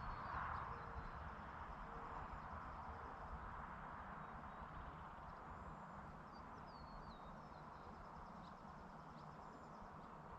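Faint rural outdoor ambience: a steady, even hiss over a low rumble. A few faint, high, short bird chirps come between about six and eight seconds in.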